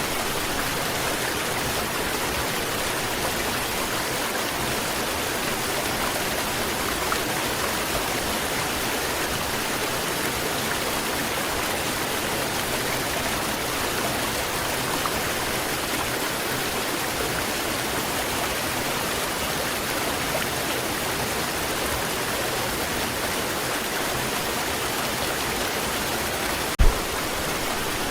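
Waterfall: a steady, even rush of falling water, with one short click near the end.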